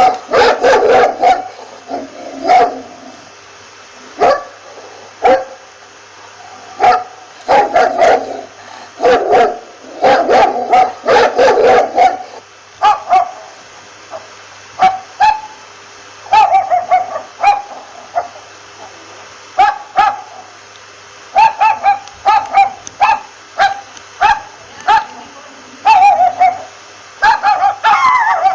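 A dog barking over and over, in quick clusters of barks for the first half. From about halfway, the calls become shorter, sharper single barks and yips with gaps between them.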